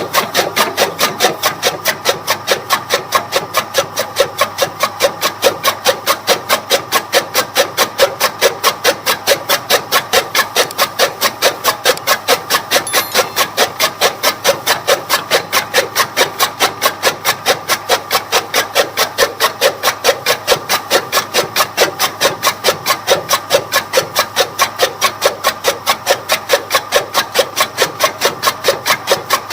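Toka (chaff cutter) machine running, its rotating blades cutting in a steady rhythm of about three strokes a second.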